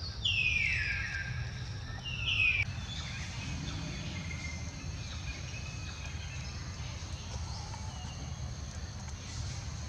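Two loud, high-pitched animal calls that fall in pitch, in the first three seconds, then fainter short chirps over a steady high hiss.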